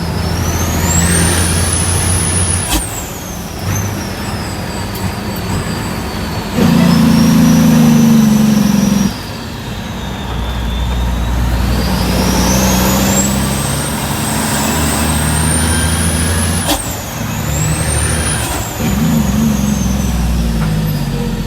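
Heavy diesel truck engine pulling under load. Its turbo whistle climbs as the revs rise, then drops sharply with a brief click at each of two gear changes, one about three seconds in and one near the end.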